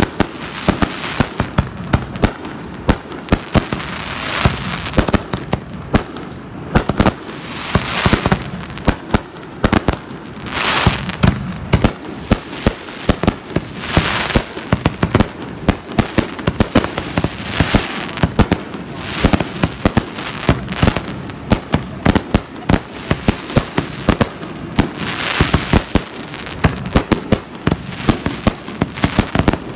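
Consumer aerial fireworks firing in a dense, continuous barrage: shells and cake tubes launching and bursting in rapid, overlapping bangs, several a second. Every few seconds there is a spell of crackling from crackle stars.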